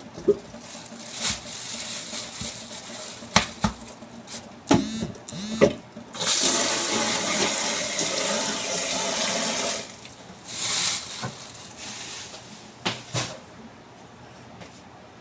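A few clinks and knocks of a utensil against a pot, then water running or pouring for about four seconds from about six seconds in, with a shorter splash of it soon after.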